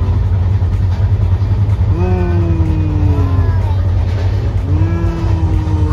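Moving passenger train's steady low rumble inside the coach. A toddler's voice calls out twice in long, drawn-out notes, about two seconds in and again near the end.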